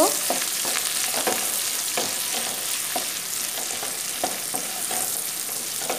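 Sliced onions and green chillies sizzling in hot oil in a non-stick kadai, stirred with a wooden spatula that scrapes and taps against the pan at irregular intervals over a steady frying hiss.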